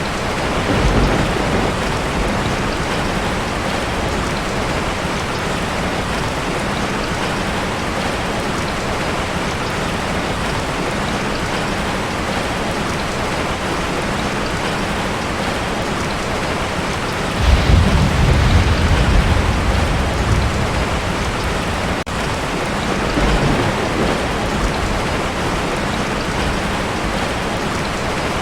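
Heavy rain falling steadily on a tin roof, with thunder rumbling low: briefly about a second in, louder for about three seconds past the middle, and more weakly soon after.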